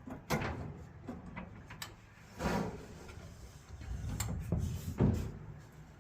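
Samsung dryer drum knocking and scraping as it is shifted by hand in the cabinet and seated on its rear rollers: a sharp knock at the start, a longer scrape about two and a half seconds in, then a low rumble with the loudest knock near five seconds.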